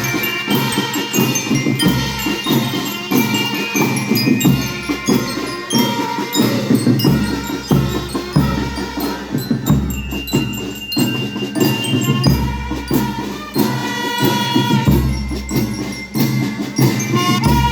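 School rhythm band (banda rítmica) playing a tune, with bell-like melodic instruments and percussion strikes keeping a steady beat.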